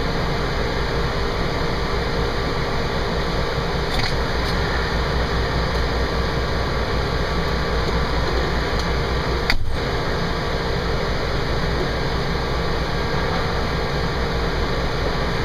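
Steady rumble of a fire engine's diesel engine heard from inside the cab, with a brief click about ten seconds in.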